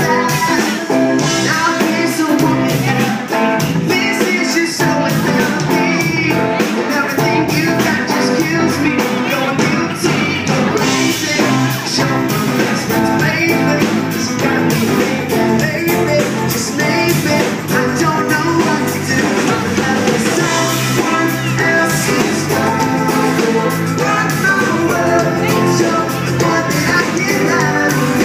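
Live pop-rock band playing a song, with guitar, drums and a lead singer, heard without a break.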